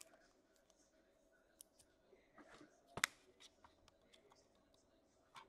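Faint handling of trading cards, a few small rustles and clicks, with one sharp click about three seconds in.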